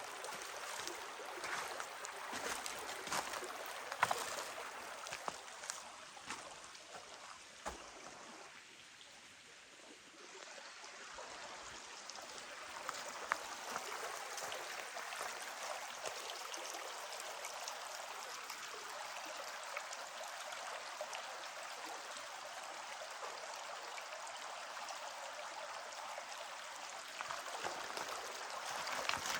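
Stream running over rocks, a steady rush of water that drops quieter for a few seconds about a third of the way in, with a few scattered clicks and knocks in the first part.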